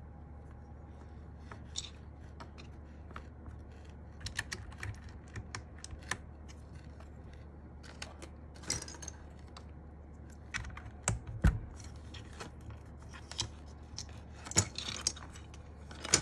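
Scattered, irregular clicks and light knocks of plastic keycaps being handled, with one heavier knock about eleven seconds in.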